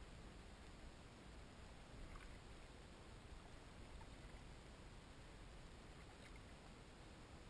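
Near silence: a faint, steady hiss with a few faint, brief ticks.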